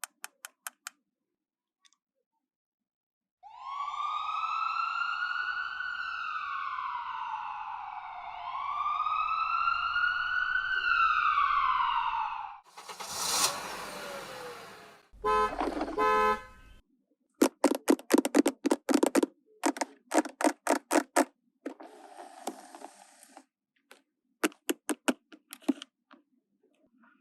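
Toy ambulance's electronic siren sounding two slow wails, each rising and then falling in pitch, followed by a short burst of noise and a run of quick clicks.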